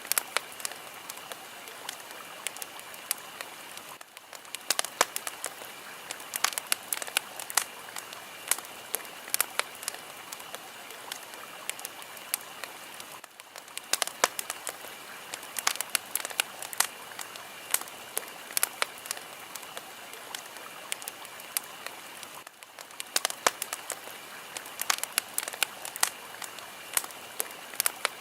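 Fire crackling: a steady hiss with frequent sharp pops and snaps, the hiss dipping briefly three times.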